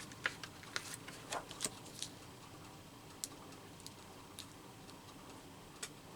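Faint, scattered light clicks and taps of paper and small craft pieces being handled on a work surface, several in the first two seconds and a few sparser ones after.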